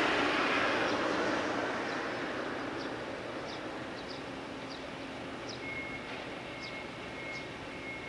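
Electric train running away into the distance, its noise slowly fading. Short high chirps repeat about once or twice a second over it, and a thin steady high tone comes in near the end.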